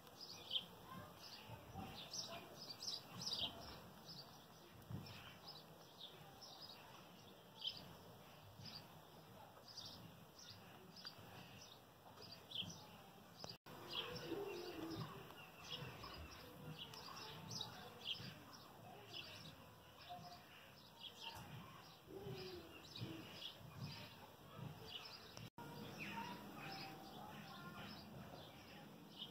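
Garden songbirds chirping and singing faintly, with many short high calls following one another.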